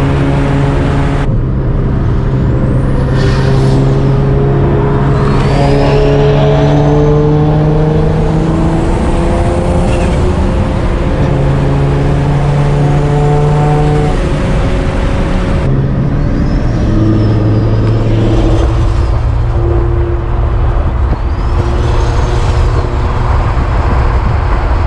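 Single-turbo Nissan 350Z V6 engines running hard, the engine note stepping through gear changes. High turbo whistles rise and fall several times as the turbos spool.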